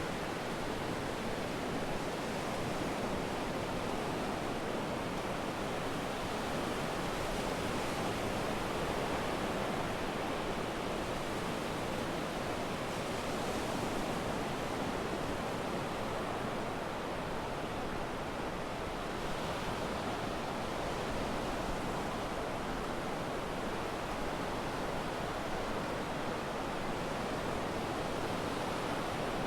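Sea surf washing onto the beach: a steady, even wash of waves.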